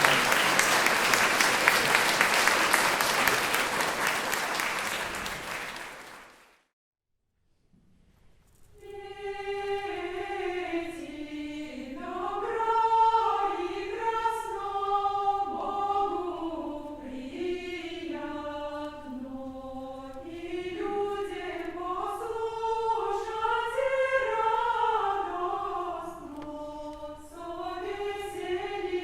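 Audience applause for about six seconds, fading into a brief silence. Then a cappella voices begin singing a single slow, winding melodic line.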